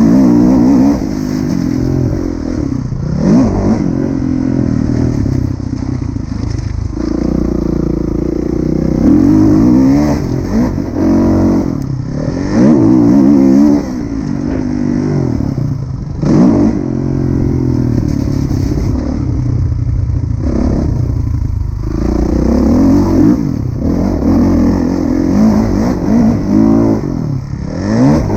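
Kawasaki KX450F's single-cylinder four-stroke engine revving up and falling off again and again as the motocross bike is ridden, with short sharp drops where the throttle is shut.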